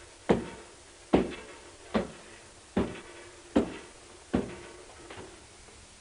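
Footsteps climbing a staircase, performed as a sound effect: slow, evenly spaced thuds, a little under one a second, seven in all, the last one fainter.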